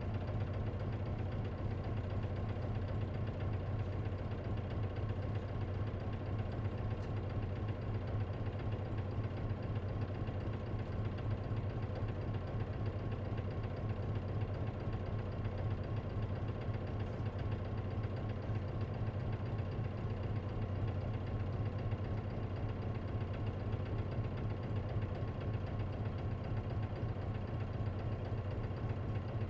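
Diesel engine of an Isuzu KC-LV380N city bus, heard from inside the cabin, running at a steady low speed with an even hum and no revving.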